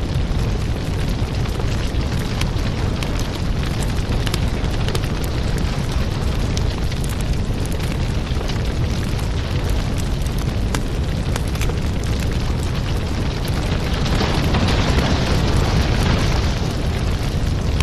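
Firewood burning: a steady low rumble of flames with frequent sharp crackles and pops. A hiss grows louder about fourteen seconds in and eases off a couple of seconds later.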